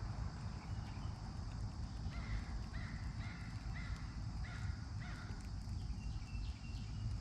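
A bird calling: a run of about six short calls roughly half a second apart, then a few higher, thinner calls near the end, over a steady low rumble.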